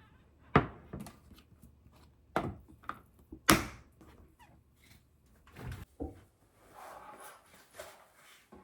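A series of sharp knocks and clunks of objects being handled and set down, the loudest about three and a half seconds in, followed by a softer rustling stretch near the end.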